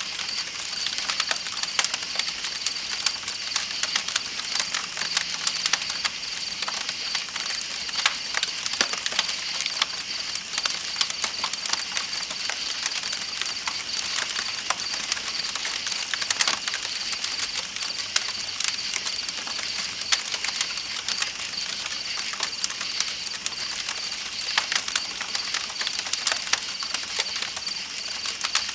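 Campfire crackling with dense, irregular small pops, over a continuous high-pitched chirping of night insects and the steady rush of a river.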